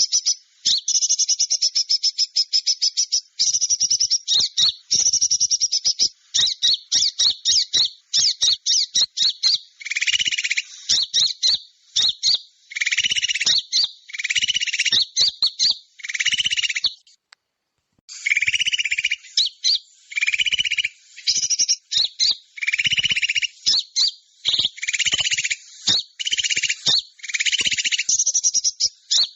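Small-bird lure call: dense, rapid, high-pitched chirping and trilling. About ten seconds in, louder, harsher chirp bursts join it, repeating about once a second. The sound cuts out briefly about 17 seconds in, then resumes.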